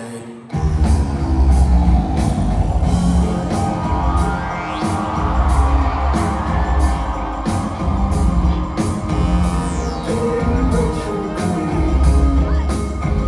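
A live rock band playing loudly, with drums and full band coming in suddenly about half a second in after a quieter sung passage, and a rising sweep a few seconds later.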